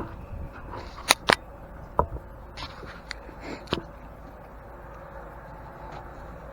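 A few sharp clicks and knocks as the camera is handled and set in its new place, then a steady low background hum.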